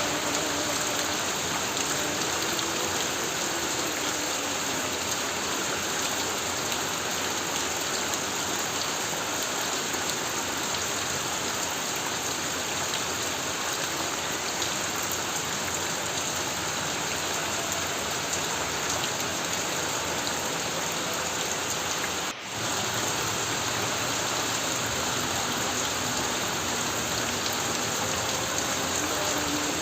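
Extremely heavy rain on a tin roof: a dense, steady hiss of drumming drops. It breaks off for an instant about three-quarters of the way through.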